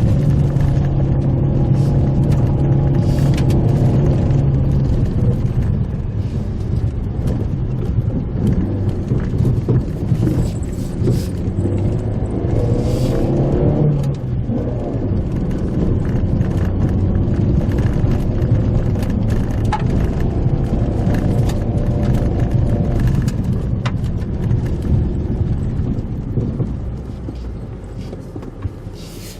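Mitsubishi Pajero Mini driving on a rough forest road, heard from inside the cabin: a steady engine note that shifts in pitch, with tyre rumble and frequent light rattles and knocks. It gets quieter near the end.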